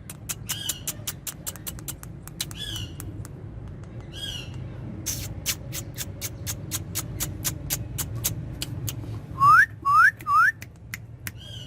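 Indian ringneck parakeet giving a few short chirps and, near the end, three quick rising whistles, over a run of sharp clicks about three or four a second.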